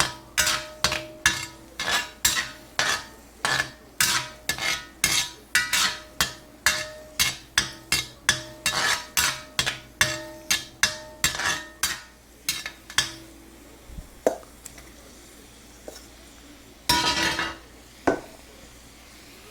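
A metal utensil striking and stirring in a frying pan, a rapid run of ringing clinks about two a second that stops after about thirteen seconds. One more brief clatter and a knock follow near the end.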